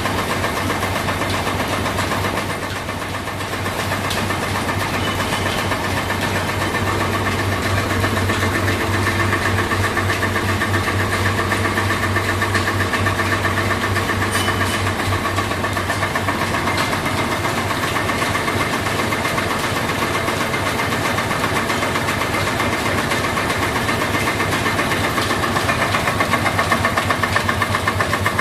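Several stationary engines running together in an engine house, a steady, fast, even beat.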